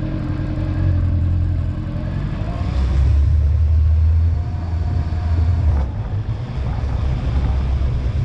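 Honda motorcycle engine running while riding, a steady low rumble that gets louder for a couple of seconds a few seconds in.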